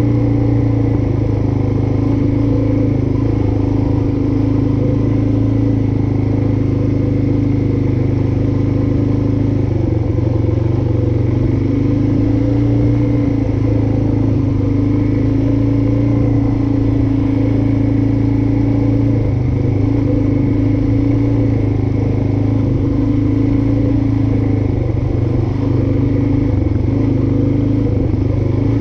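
Suzuki DR-Z400S's single-cylinder four-stroke engine running at a fairly steady speed, its pitch shifting only slightly a few times.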